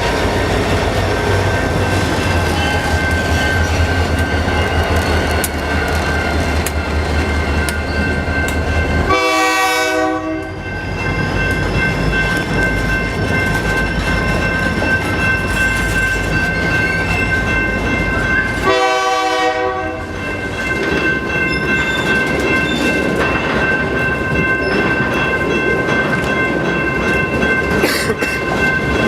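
Canadian Pacific freight train rolling past, a steady loud rumble of wheels on rail with clickety-clack and steady high ringing tones. There are two brief tonal sounds, each about a second long, roughly 9 and 19 seconds in.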